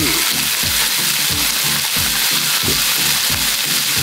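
Lamb, onions and bean sprouts sizzling steadily in a pan, with background music of low plucked notes.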